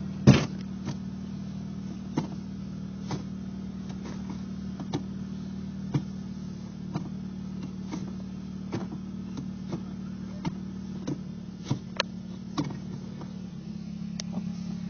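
Nissan Sentra SE-R Spec V's 2.5-litre four-cylinder engine idling with a steady low hum, while the car shakes at a standstill, a shake the owner likens to a misfire but feels is a mechanical imbalance. Irregular sharp clicks come about once a second, the loudest about a third of a second in.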